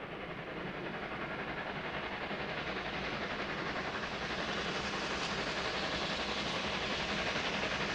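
A train approaching, its running noise growing steadily louder with a fast, even pulse.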